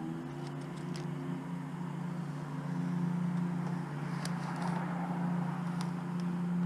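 A steady low hum of a running vehicle engine, growing a little louder about halfway through, with a few faint clicks.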